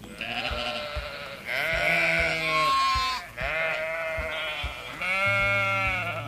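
Sheep bleating: four bleats in a row, wavering in pitch, the second and fourth the loudest.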